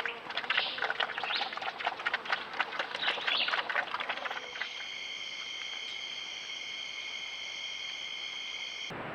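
Birds calling in quick chattering chirps and clicks. About four seconds in, a steady high insect buzz with several even tones takes over and holds until it cuts off near the end.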